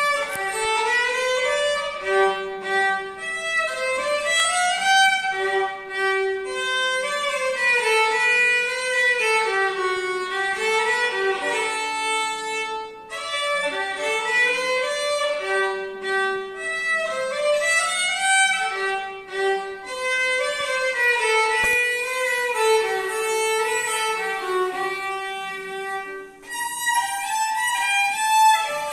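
A violin playing a melody of short notes, one phrase repeated about every six or seven seconds.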